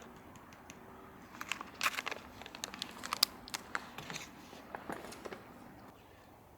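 Crinkling and crackling with sharp irregular clicks for a few seconds, from a packet of curry powder being handled to season fried small horse mackerel.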